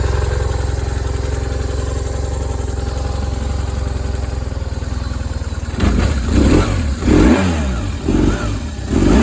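2002 BMW R1150RT's boxer twin engine idling steadily, then revved in four quick throttle blips, each rising and falling, starting about six seconds in.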